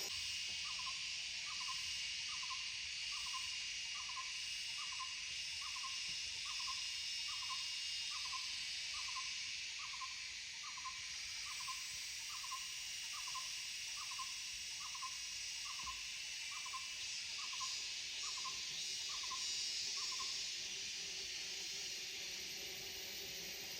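A forest bird calling a single short hollow note, repeated evenly about once every 0.8 s some two dozen times, then falling silent near the end. Under it runs a steady, high insect hiss.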